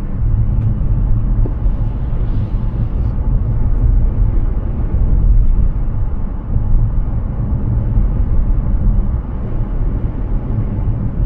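Steady low rumble of road and tyre noise from a Hyundai Ioniq 6 electric car driving.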